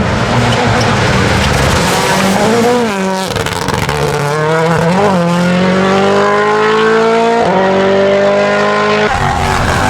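Rally car engine accelerating hard. Its pitch climbs through several quick upshifts, then gives way to a rougher noise about nine seconds in.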